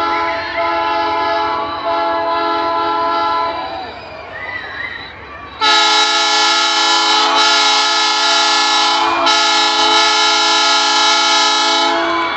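Train locomotive's air horn sounding a multi-note chord in two long blasts: one already going at the start that stops about three and a half seconds in, then a louder one starting about two seconds later and held almost to the end, dipping briefly twice.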